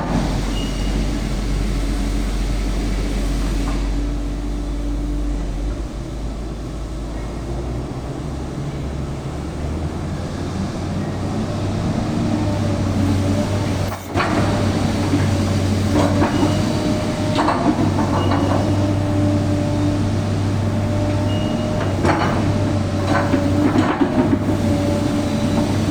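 A 38-ton excavator's diesel engine running under load, its pitch stepping up about a third of the way in as it is revved for digging work. In the second half a steady whine comes in, along with several sharp knocks.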